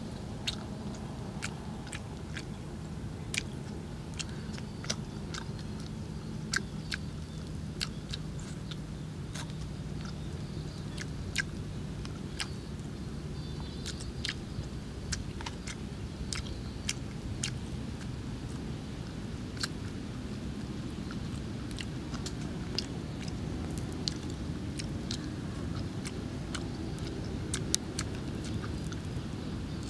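Close-up chewing and lip-smacking of a person eating fish, with sharp wet mouth clicks at irregular intervals. A steady low hum runs underneath.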